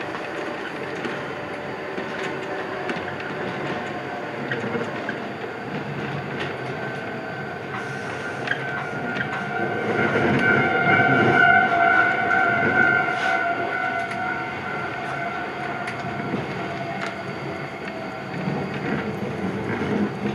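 Iyotetsu 3000 series electric train running along the track, heard from the cab, with rumbling and rail-joint clicks. A steady high whine swells and fades about halfway through as the train nears a station.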